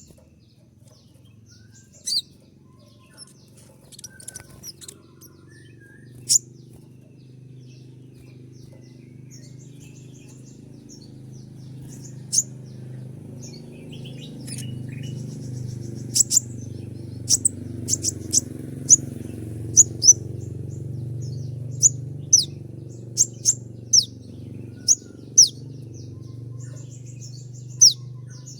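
Kolibri ninja sunbird ('konin') calling: sharp, high, very short chip notes, singly and in quick pairs, sparse at first and then coming faster and louder in the second half, the 'shot' (tembakan) call type bird keepers use. A steady low hum runs underneath.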